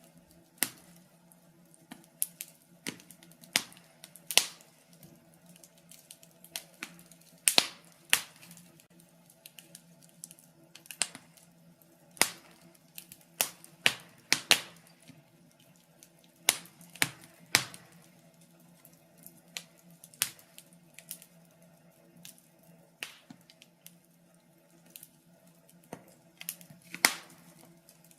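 Wood fire crackling in a fireplace: sharp, irregular pops and snaps, some much louder than others, over a faint steady hum.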